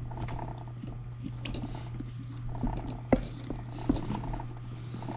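Rubber tire bead being pushed and rotated by hand over a wheel rim, with rubbing and squishing and a few sharp knocks, over a steady low hum.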